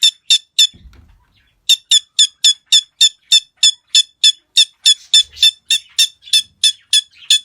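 Parrot squawking in a fast, even series of short, high-pitched calls, about three or four a second, pausing briefly around a second in and then carrying on.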